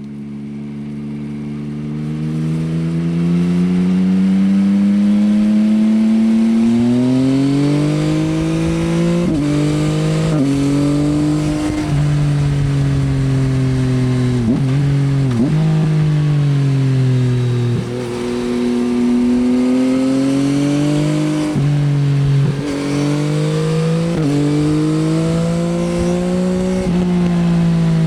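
2024 Yamaha XSR900's 890 cc inline-three engine through an Akrapovič Racing Line exhaust, running and revving. The pitch climbs steadily for the first several seconds, then rises and falls repeatedly, with several sharp, brief dips in pitch.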